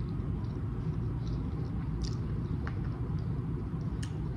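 Sushi being chewed with the mouth closed: scattered soft, wet mouth clicks over a steady low rumble.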